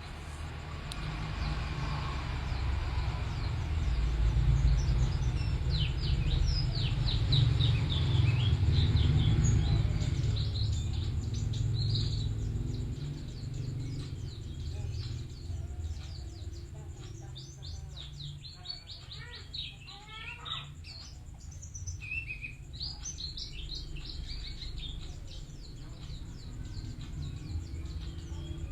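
Pleci (white-eye) of the Bustomi type singing in long, fast runs of high twittering chirps, over a steady low background rumble that is loudest in the first half.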